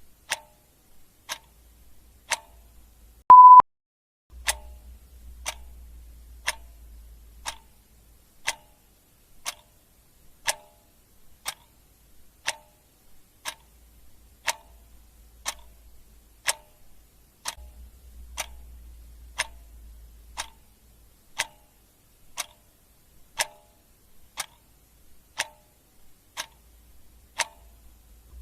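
Clock ticking steadily, about one tick a second. About three seconds in comes a single short, loud high beep.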